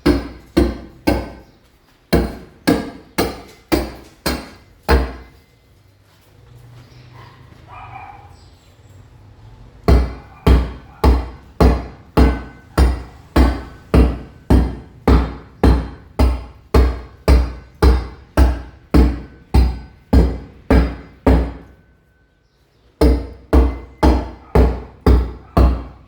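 Hammer blows on a chisel chipping a masonry wall to roughen it for tile: steady, even strikes about two or three a second. The strikes stop for about four seconds after the first few seconds, and again for about a second near the end.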